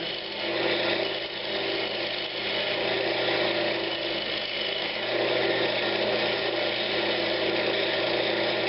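Wood lathe running steadily while a turning tool rides the bevel and cuts a bead into a spinning pine cabinet knob: a constant motor hum under the continuous hiss of the cut.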